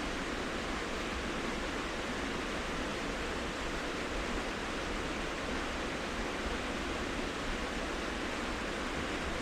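A waterfall rushing steadily: a constant, even hiss of falling water.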